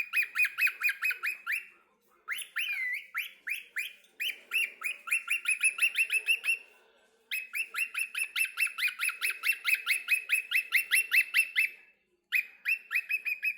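Cockatiel calling in fast runs of short, sharp chirps, about six a second, in bursts of a few seconds broken by brief pauses.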